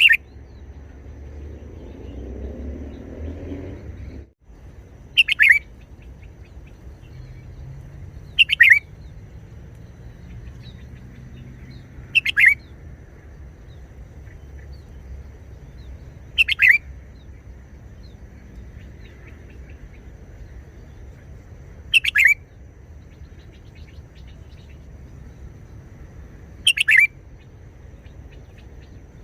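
Red-whiskered bulbul singing short, clear song phrases, one every four seconds or so, six in all.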